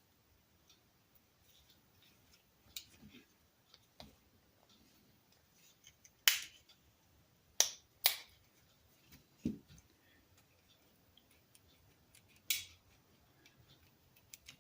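Scattered sharp clicks and light taps of the small metal parts of a Stanley Yankee Handyman 233H push drill being handled as its collar is worked forward during disassembly. The loudest come about 6 and 8 seconds in.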